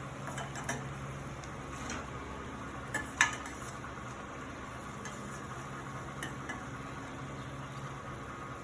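Bajji frying in hot oil with a steady sizzle, and a few clinks of a metal utensil against the pan; the sharpest clink comes a little over three seconds in.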